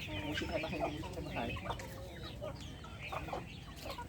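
Chickens clucking, a run of short, quick calls overlapping one another.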